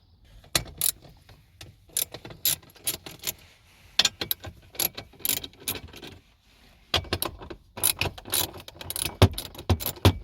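Ratchet and 10 mm socket clicking in short, irregular runs with small knocks as the bolts of a lower dash panel are backed out.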